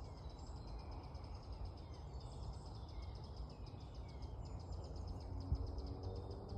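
Woodland ambience: scattered faint bird chirps and calls over a steady low background rumble, with a single short thump about five and a half seconds in.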